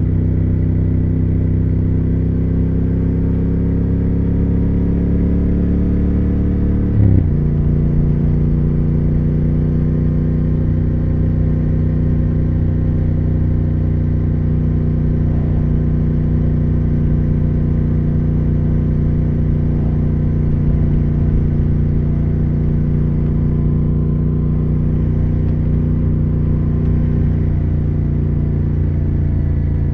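2020 Triumph Speed Twin 1200's parallel-twin engine and exhaust under way: revs climb for about seven seconds, then a quick gear change with a short jolt, after which the engine runs at a steady cruising speed.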